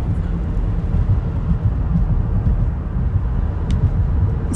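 Steady low rumble of a car on the move, with no pitched engine note.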